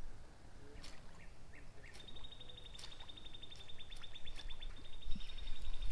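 A songbird's fast, even trill on one high pitch, starting about two seconds in and running on with a brief break. A few faint ticks come before it.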